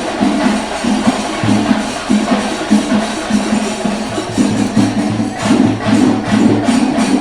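Kerala temple percussion: chenda drums beaten in a fast, steady rhythm with bright metallic cymbal strokes, growing denser about five seconds in.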